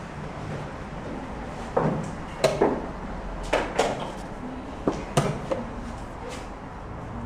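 A quick, irregular run of sharp knocks from rapid chess moves: pieces put down on the board and the chess clock pressed, several knocks coming in quick pairs.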